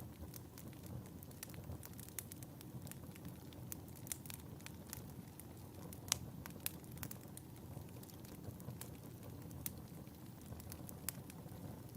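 Wood fire burning in a fireplace: a low steady rush of flames under frequent sharp crackles and pops, the loudest pop about six seconds in.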